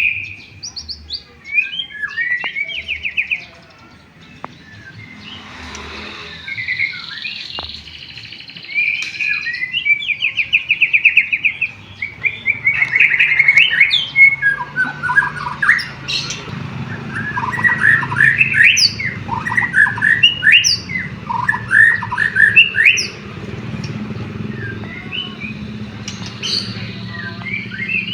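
White-rumped shama (murai batu) singing a loud, varied song of whistles, fast trills and chirps, with canary phrases worked in. The notes come thicker and faster from about halfway through, over a low steady hum.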